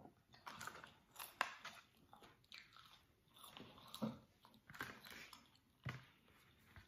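Close-up mouth sounds of someone eating French fries and chicken nuggets: soft, irregular biting, crunching and chewing.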